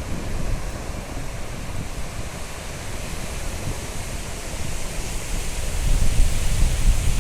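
Sea surf washing on a beach, with wind buffeting the microphone in a low rumble that grows stronger about six seconds in.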